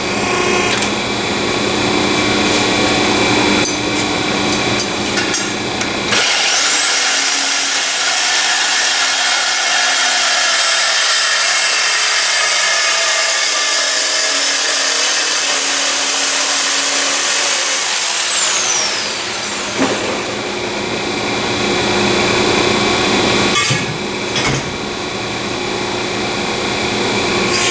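High-speed power tool working exhaust tubing: it spins up to a high steady whine, runs for about twelve seconds, then winds down with a falling whine.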